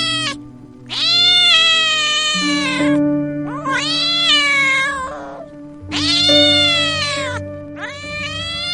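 An animal giving long, drawn-out cries, about four in a row, each rising and then falling in pitch, over background music with held notes.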